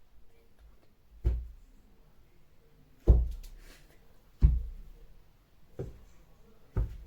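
Slow, heavy knocks on a door, five in all about one to two seconds apart, each a deep thud; the second and third are the loudest.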